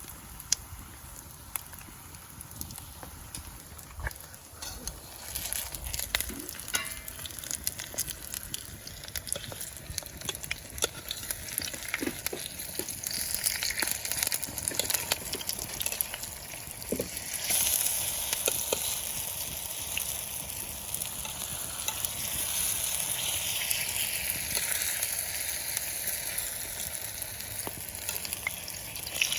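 Saltfish dumplings frying in hot oil in a pot: a steady sizzle dotted with small crackles and pops, growing louder a little past halfway through.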